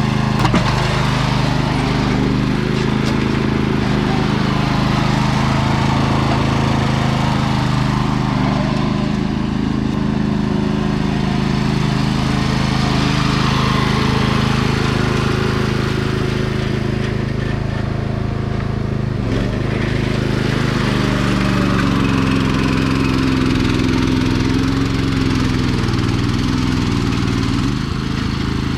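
Sears 10XL garden tractor engine running steadily at working speed, with small shifts in pitch as it takes load pushing dirt.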